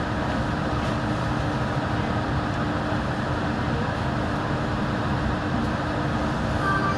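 Yurikamome rubber-tyred automated guideway train running at a steady speed, an even rumble of tyres on the guideway with a steady low hum.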